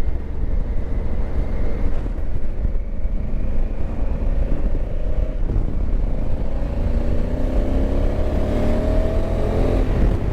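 Honda Africa Twin's parallel-twin engine pulling under acceleration, its pitch climbing steadily and dropping at a gear change about five seconds in, then climbing again and dropping at another shift near the end. Heavy wind rumble on the microphone.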